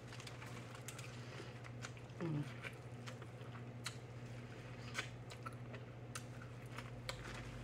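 Biting and chewing corn on the cob, with faint wet mouth clicks and smacks scattered throughout and a brief voiced 'mm' about two seconds in.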